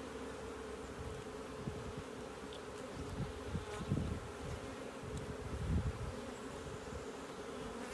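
Honeybees buzzing as a steady, many-toned hum around an open hive, with a couple of low thuds about four and six seconds in.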